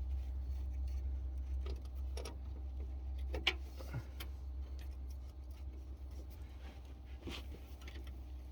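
Scattered light clicks and clinks of hand work as a new fuel filter is fitted into a truck's fuel line, the sharpest about three and a half seconds in, over a steady low hum.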